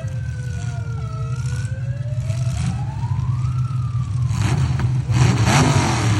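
Demolition derby truck engines running hard, with whines that slide down and then rise as engines rev. Near the end there are two loud, harsh bursts of noise.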